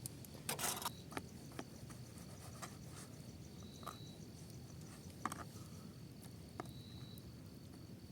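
Quiet outdoor ambience: a faint steady high insect drone with two short high chirps, and scattered light clicks, with a brief rustle about half a second in.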